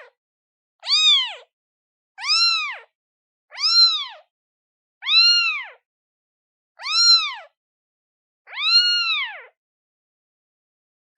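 Newborn kitten, one day old, meowing to call its mother: six separate high, thin meows about a second and a half apart, each rising then falling in pitch, the last a little longer than the rest.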